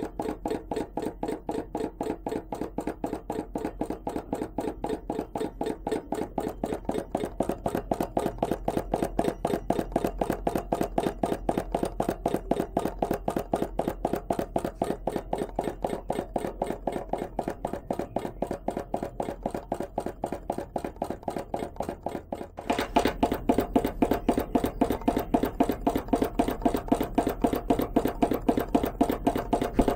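A small home-made hot-air Stirling engine, built from a converted air pump, running steadily with an even mechanical clicking of about five strokes a second. About three-quarters of the way through the clicking suddenly gets louder and brighter.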